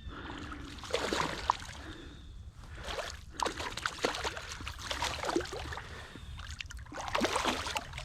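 Creek water splashing and sloshing close by in irregular bursts, as water is stirred by hands or legs at the surface.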